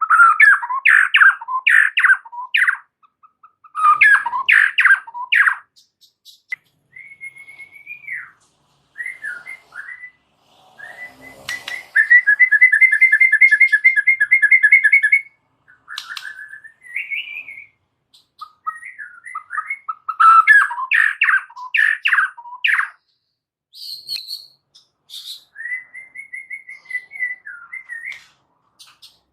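White-rumped shama singing a varied song: fast bursts of rapid notes, whistled phrases, and a long, even trill from about 12 to 15 seconds in.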